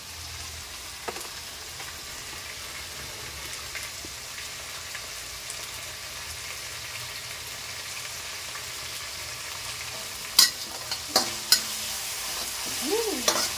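Food sizzling steadily in a wok as onion and shrimp stir-fry in a little oil on a gas stove. A few sharp clicks of a metal spatula against the wok come about ten to eleven seconds in.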